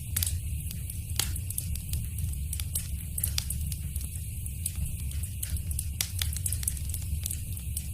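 Wood fire crackling, with irregular sharp pops and snaps over a steady low rumble and soft hiss of the flames.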